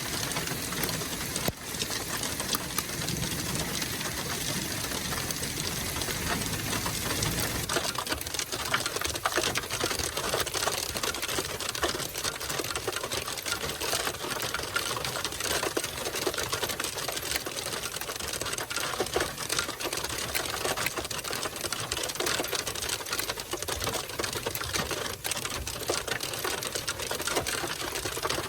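Hail pelting a vehicle's roof and windshield: a dense, rapid, continuous clatter of small impacts. A low rumble underneath fades about eight seconds in.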